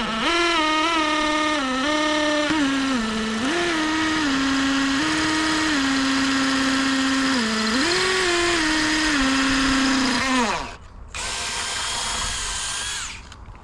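Hammer drill boring through a pressure-treated 2x4, its motor whine dipping and recovering repeatedly as the bit loads up. It stops about ten and a half seconds in, then runs again for about two seconds at a steadier, higher pitch.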